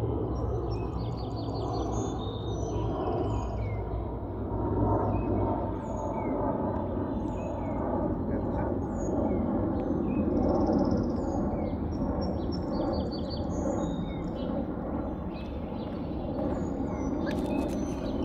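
Songbirds chirping and trilling, with short down-slurred calls repeating about once a second over a steady low outdoor rumble. A few sharp taps come near the end.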